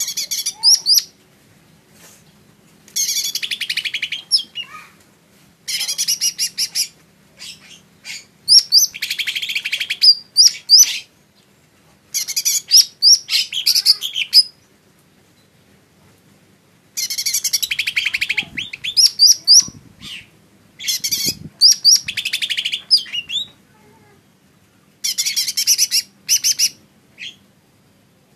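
Cucak ijo mini, a small leafbird, singing in repeated bursts of rapid high chirping notes, each phrase lasting one to three seconds, with short pauses between.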